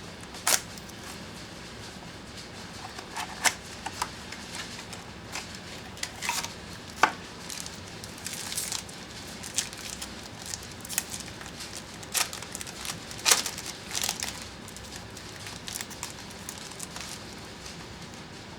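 Football trading cards and their packaging being handled: irregular sharp clicks, taps and short rustles as cards are opened and sorted.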